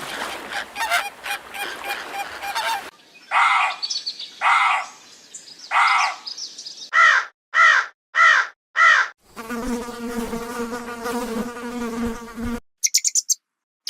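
Several different animal sounds cut one after another. First comes a dense rapid crackle of about three seconds, then three separate calls. These are followed by four quick short calls, a long steady pitched call, and brief high chirps near the end.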